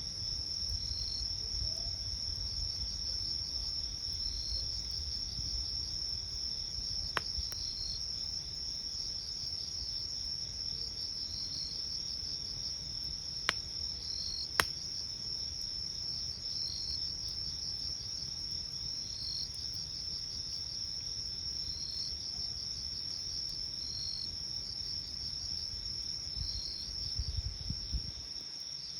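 Crickets trilling steadily at night, with another insect giving a short chirp about every two seconds. Burning firewood pops sharply three times, twice in quick succession around the middle.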